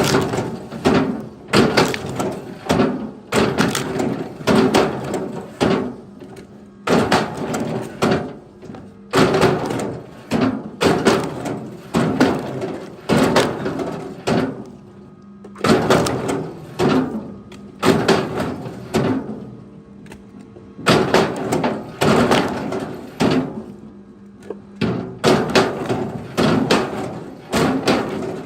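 Heavy wooden knocks and thuds, one to two a second in uneven runs with short pauses, each with a short hollow ring, like split firewood logs being thrown onto a pile, over a faint steady hum.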